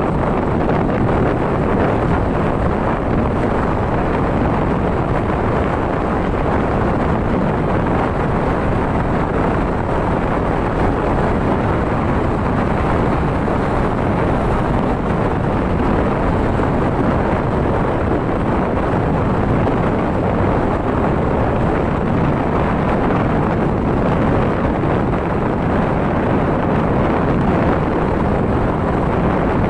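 Steady, loud wind rushing over the microphone while travelling at speed, with the dull noise of the vehicle underneath and no distinct events.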